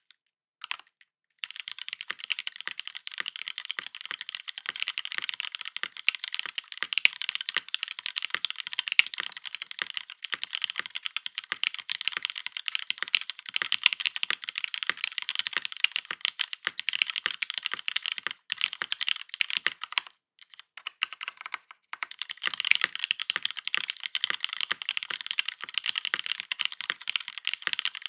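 Fast continuous typing on a KMG B65 mechanical keyboard with linear Cherry MX Black switches, GMK Serika keycaps and a full aluminium plate: a dense run of keystroke clacks that pauses briefly about twenty seconds in, then resumes.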